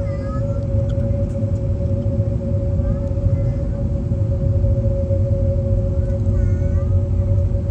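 Cabin noise of an Airbus A321neo with CFM LEAP-1A engines: a steady, deep rumble of engine and airflow with a constant hum tone over it.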